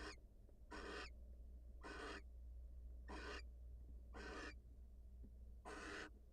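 Barn owl giving rasping, hissing calls, each about a third of a second long and repeated roughly once a second, over a steady low hum.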